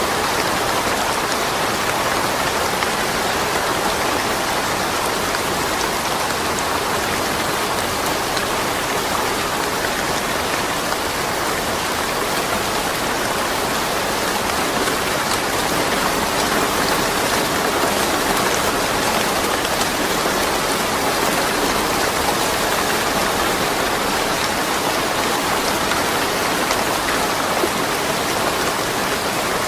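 Steady rain falling, a constant even patter with scattered drop ticks and no thunder.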